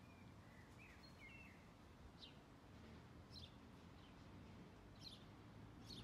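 Wild birds calling faintly in trees: short, high chirps that fall in pitch, about one a second, with a few lower twitters in the first second and a half, over a steady low background rumble.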